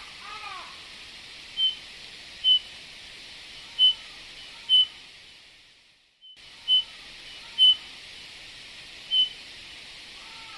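Eurasian bullfinch calling: seven short, high whistled notes spaced about a second apart, with softer, lower arching notes near the start. The recording fades out briefly about six seconds in and starts again.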